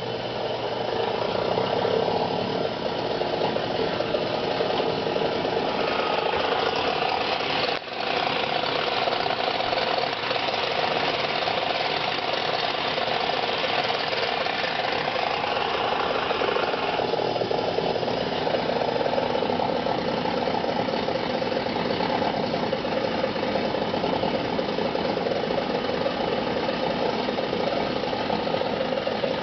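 Wolf range oven's convection fan running at baking temperature, with a loud, steady mechanical noise that rises to full level within the first couple of seconds. The noise, which comes only when the oven is hot, is a sign of a fault in the fan.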